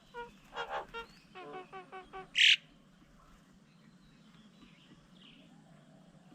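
Birds calling: a string of short piping notes, the last five in an even run, then one loud harsh call about two and a half seconds in.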